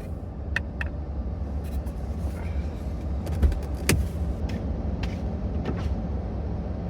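Minivan running, a steady low rumble with a hiss above it and a few light clicks and knocks scattered through.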